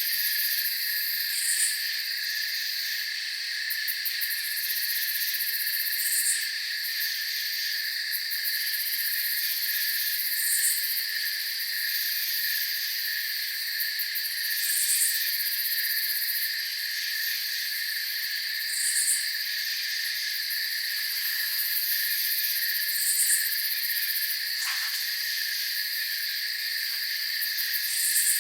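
Night cricket chorus: steady, unbroken trilling in several pitch bands, with a short high chirp recurring about every four seconds.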